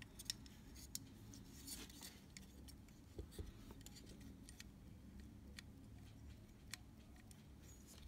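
Near silence with a low steady hum and a scattering of faint, short clicks and ticks from small handwork on the camera's shutter mechanism.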